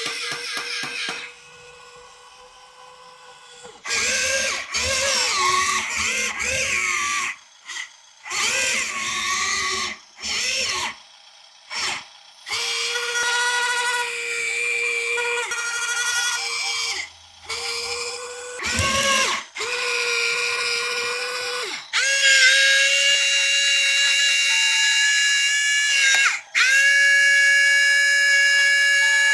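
Small electric gear motors of a 1/50 scale mini RC tracked dump truck whining, starting and stopping many times. In some runs the pitch slides up and down; in the later, longer runs it holds steady.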